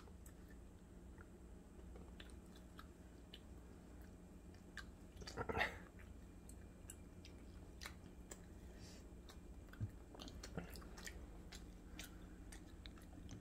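Faint chewing and small crunches of children eating crumb-coated mozzarella corn dogs, with scattered clicks of biting and one brief louder sound about halfway through.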